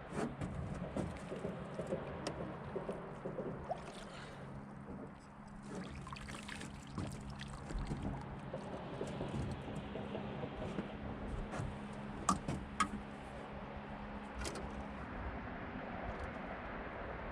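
Water sloshing and trickling around a small fishing boat, with scattered clicks and knocks of handling, over a steady low hum that stops near the end.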